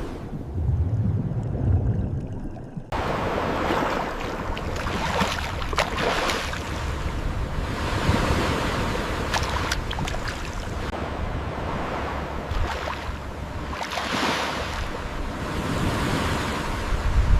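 Ocean waves washing and surging in a steady rush with slow swells. For about the first three seconds there is only a muffled low rumble, then the full wash cuts in abruptly.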